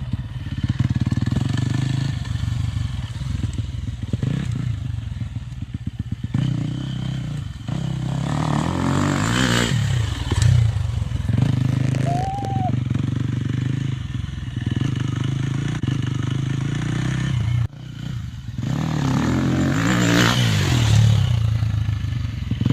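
Dirt bike engine running steadily, growing louder twice, about ten and twenty seconds in, as its pitch swings down and up.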